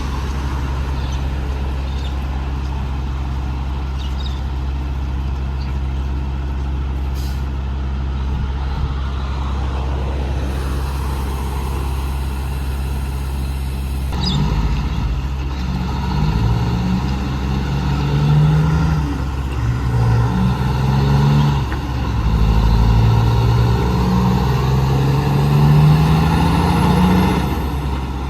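Heavy truck's diesel engine running steadily at first, then from about halfway accelerating away, its pitch climbing and dropping back several times as it shifts up through the gears.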